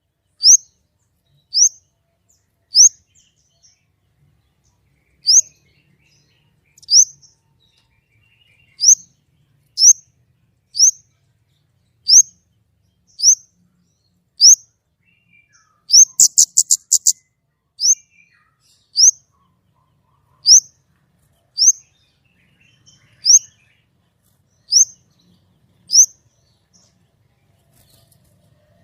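Orange-headed thrush (kemade) calling: a sharp, high, upward-sweeping note repeated about once every second or so, with a quick rattling burst of rapid notes about sixteen seconds in.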